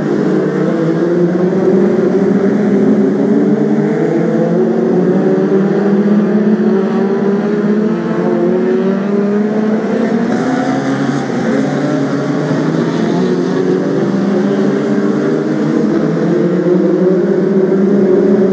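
A pack of BriSCA F2 stock cars racing, several engines running hard at once, their pitches overlapping and slowly climbing as the cars accelerate.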